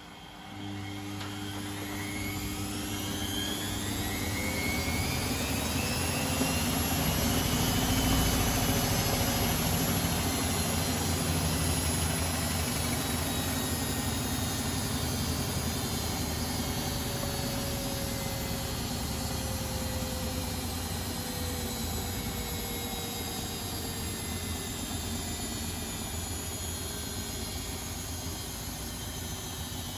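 Top-loading washing machine starting a spin: the motor kicks in suddenly and the drum speeds up with a rising whine over several seconds, then runs on at steady high speed.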